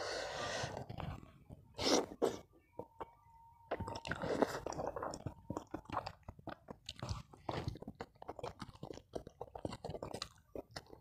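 Close-miked chewing of a mouthful of balado eggplant and rice: quick, irregular small clicks and mouth noises, thickest from about four seconds in.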